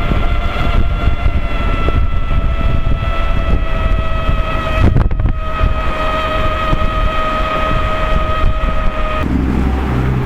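Inmotion V13 electric unicycle riding on pavement: the knobby tyre gives a steady hum that sinks slowly in pitch, with wind on the microphone. Near the end the hum stops and a rising tone starts.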